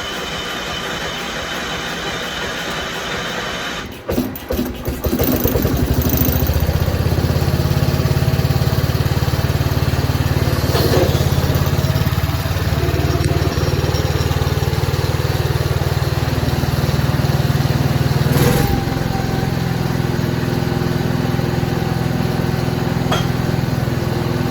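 Allis-Chalmers garden tractor's Kohler engine being cranked by its starter for about four seconds, then catching and running steadily. This is its first run after a head gasket replacement. About 18 seconds in there is a brief sharp knock, and the running note drops a little after it.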